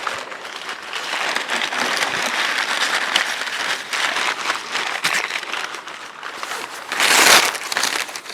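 Hands rummaging through a cardboard shipping box, packing material rustling and crinkling with small knocks, and a louder burst of crinkling about seven seconds in.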